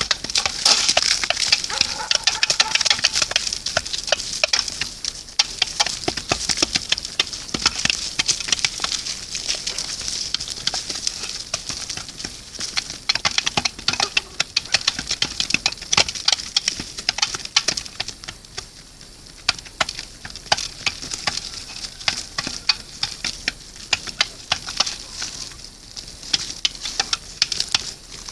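Dense, irregular crackling and rustling, typical of pheasants scratching and pecking through dry litter at a feeding spot, with a quieter spell about two-thirds of the way through.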